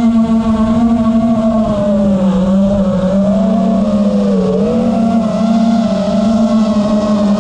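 Racing car engine held at high revs, its pitch steady with a brief dip and recovery about four and a half seconds in.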